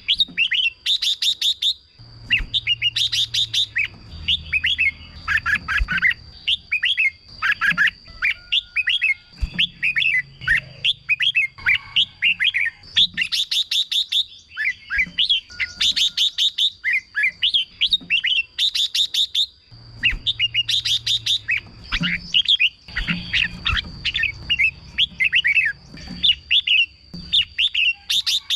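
Red-whiskered bulbuls singing: short, quick, bubbling whistled phrases repeated one after another, with a steady thin high tone underneath.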